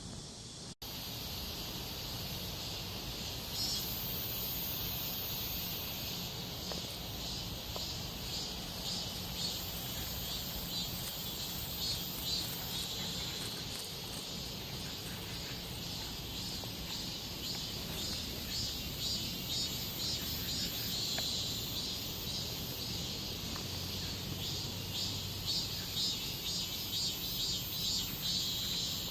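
Cicadas singing: a continuous, high buzzing chorus with a fast pulsing that runs unbroken.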